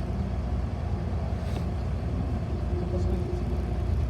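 Steady low engine and road rumble of a city bus, heard from inside the passenger cabin.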